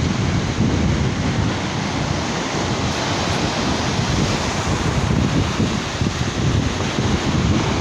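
Sea surf washing onto a beach, a steady roar of waves, with wind buffeting the microphone.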